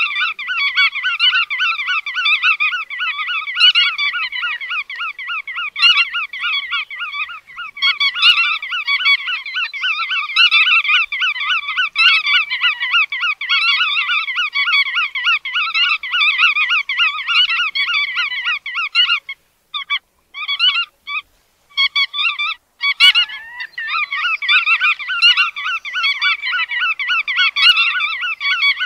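A flock of bar-tailed godwits calling: a dense, continuous chatter of rapid, overlapping calls. The calls break off briefly a few times about twenty seconds in, with a single click near the end of those breaks.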